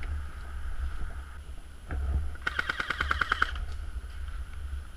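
Airsoft gun firing a rapid full-auto burst of about a dozen shots lasting about a second, with a single shot a little before it.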